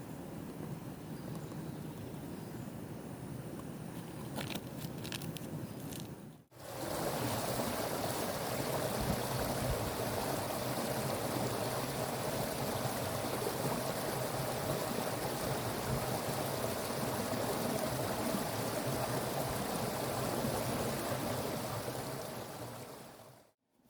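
Stream water flowing in a steady, even rush that starts abruptly about a quarter of the way in and cuts off just before the end. Before it there is quieter outdoor background with a few light clicks.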